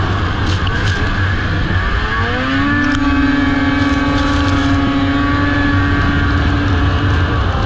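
Racing snowmobile engine winding up about two seconds in, then holding a steady high rev at full throttle before letting off near the end, over a constant heavy low rumble.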